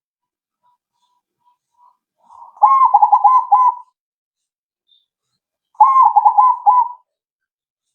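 Zebra dove (perkutut, krosing type) singing: two song phrases a few seconds apart, each about a second of quick rolling coos. A few faint soft notes come before the first phrase.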